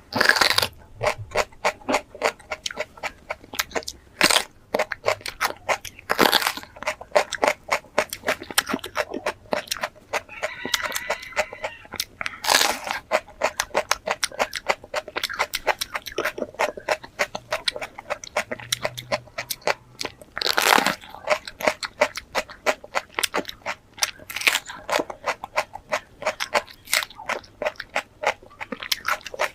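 Close-miked biting and chewing of fresh capsicum (bell pepper): rapid wet crunching chews, with a louder crunching bite every few seconds.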